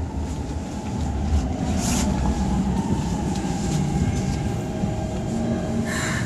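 Keikyu electric commuter train slowing into a station, heard from inside the car: a steady running rumble with a faint motor whine that slowly falls in pitch as the train brakes.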